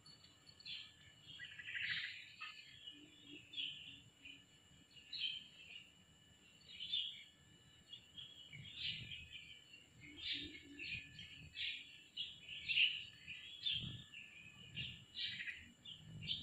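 Birds chirping, a run of short high calls repeating every second or so, some overlapping.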